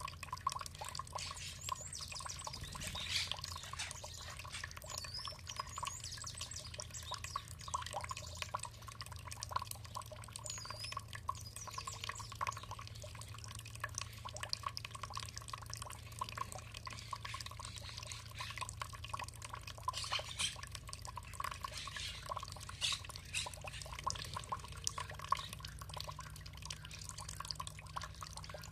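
Water trickling and splashing steadily, like a small stream or fountain pouring, with a few faint bird chirps over it.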